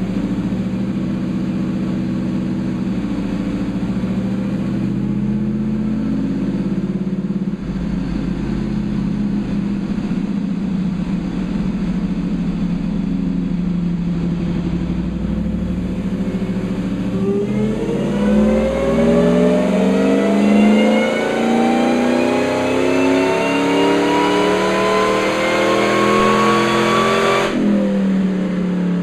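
Supercharged V8 of a Ford SVT Lightning pickup running steadily on a chassis dyno, then climbing steadily in pitch through a full-throttle dyno pull of about ten seconds. Near the end the throttle closes suddenly and the engine drops back to a steady lower note.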